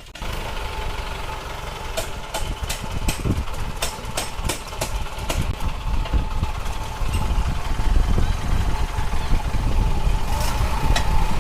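Heavy diesel engine running close by, a steady deep rumble, with a string of sharp clanks or knocks from about two to five seconds in and a few more near the end.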